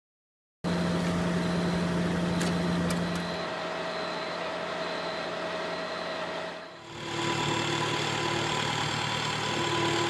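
Heavy road-repair machinery engines running steadily, with a cut about two-thirds of the way through to a second machine running with a different hum.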